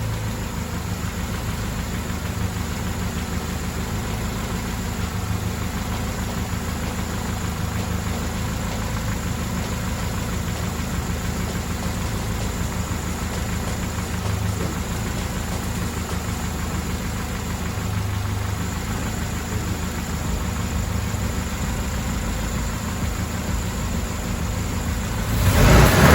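Mercedes-Benz W124 230E's 2.3-litre four-cylinder engine idling steadily, with a brief louder surge near the end.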